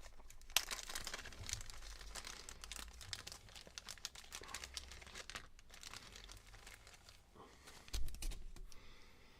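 Plastic bag crinkling and rustling as it is opened and handled to take out miniature parts, with irregular crackles throughout and a soft knock about eight seconds in.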